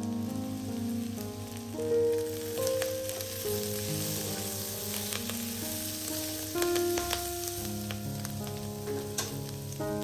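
Chicken and mushrooms sizzling in garlic butter and olive oil in a stainless steel wok, with a spatula stirring and scraping the pan in sharp clicks. Soft background music plays over it.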